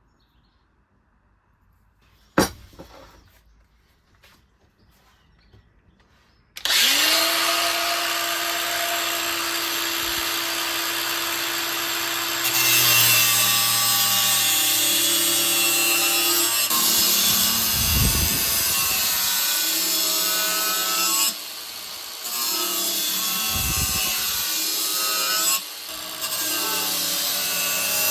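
A sharp knock about two seconds in, then an angle grinder spins up a few seconds later and runs steadily. About halfway through it goes under load on the rasp steel, louder and with its pitch wavering, easing off briefly twice.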